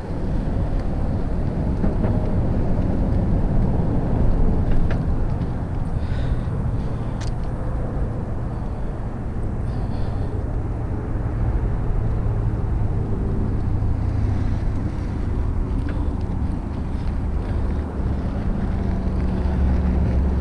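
Wind rumbling over the GoPro microphone while mountain biking: a steady, loud low roar with a few faint clicks.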